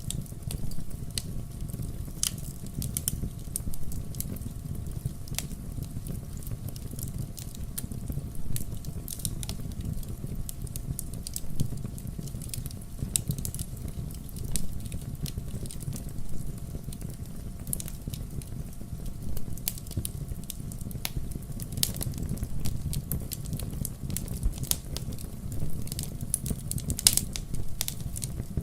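Burning firewood crackling, with irregular sharp pops and snaps over a low, steady rumble of the fire.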